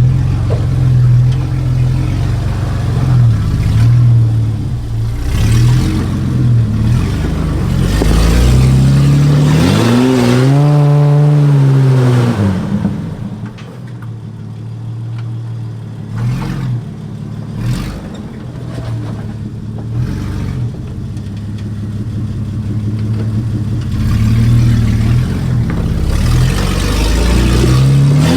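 Nissan GQ Patrol's TB42 carburetted straight-six, running with no exhaust, revving and working under load on a climb. The revs rise and fall sharply about ten seconds in. The engine eases off in the middle, with a few knocks, and builds again near the end.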